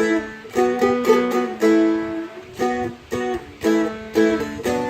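Seagull Merlin M4 strumstick, a fretted dulcimer-style instrument, playing a short lead lick picked over chords. Notes and chords are struck in a quick, uneven rhythm, about two or three each second, with a brief pause about halfway through.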